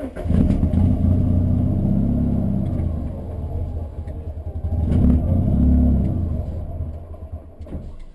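Rally car engine, a Fiat Punto 1.8, running loud and low and swelling in revs twice before dropping away sharply near the end.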